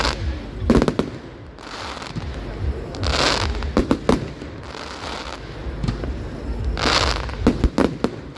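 Fireworks display: shells bursting with sharp bangs in quick clusters of two to four, and three hissing, crackling swells between them.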